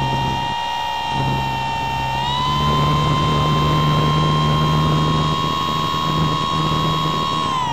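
The motor and propeller of an RC glider, heard from a camera on board, running as a steady whine over rushing air. The pitch steps up slightly about two seconds in and starts to fall near the end as the motor slows.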